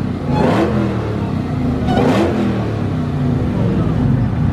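A car engine revved hard and let fall back twice, about half a second and two seconds in, over a steady low engine note.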